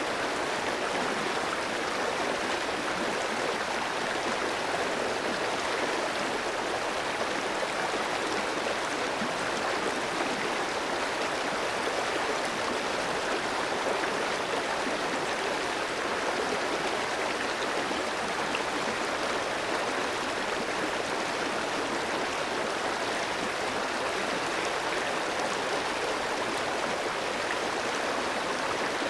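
Clear stream flowing over rocks: a steady, even rush of water.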